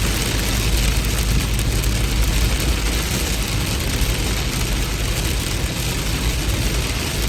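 Heavy rain pouring steadily, an even hiss with a deep, steady rumble underneath.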